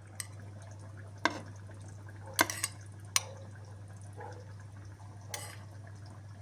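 Kitchen utensils clinking against kitchenware, a handful of sharp clinks with the loudest about two and a half seconds in, over a steady low hum.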